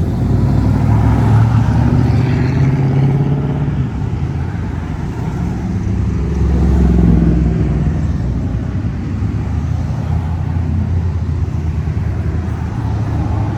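Classic car engines rumbling as the cars cruise slowly past, swelling about a second in and again about halfway through as they go by.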